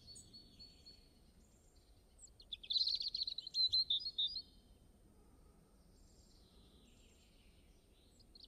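A bird singing: a run of quick high notes, then a louder, rapid chattering phrase from about two and a half to four and a half seconds in, over a faint low background hiss.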